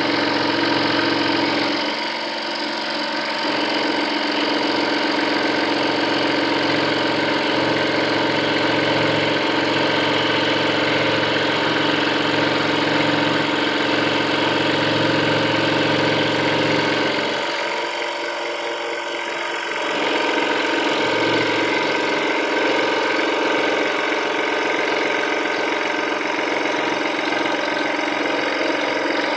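Scroll saw running steadily while cutting, a continuous buzzing hum from its motor and reciprocating blade. The sound thins and drops slightly twice, about two seconds in and again around eighteen seconds.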